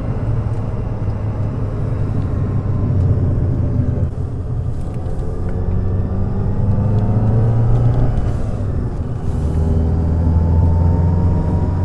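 The Fiat Coupé 2.0 16V Turbo's turbocharged four-cylinder engine running under way, with a steady low rumble. Its pitch climbs slowly, drops back about nine seconds in, then climbs again.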